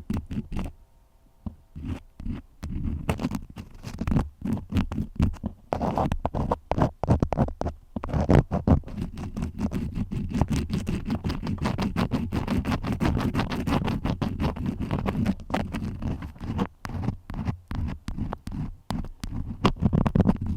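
Crayons scratching and rubbing in quick strokes, with heavy low rumbling and frequent small taps. There is a brief lull about a second in, and the scratching becomes continuous from about six seconds in.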